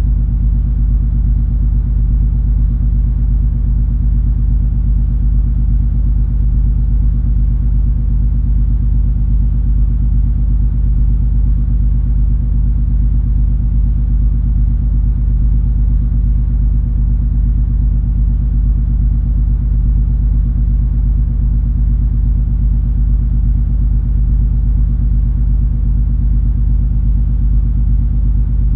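Steady low drone of the MS Color Fantasy cruise ferry under way: engine and hull rumble carrying through the ship, with a few steady hum tones and no change in level.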